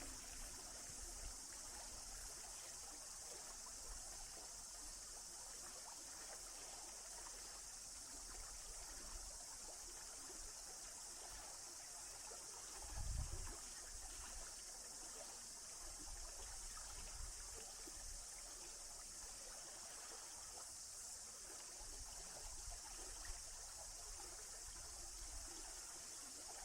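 Steady flowing water of a forest stream, a faint even rush. A brief low thump sounds about halfway through.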